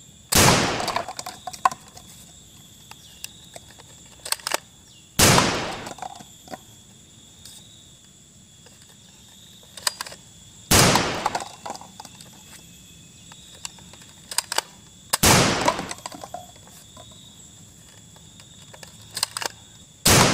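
Toy blaster shooting at a stack of plastic cups: five loud gunshot-like bangs about five seconds apart, each ringing out briefly, with small clatters between them. A faint steady high whine runs underneath.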